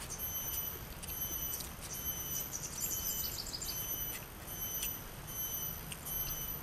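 Birds chirping outdoors, with a quick run of high chirps about halfway through, over a low steady rumble and a few light clicks.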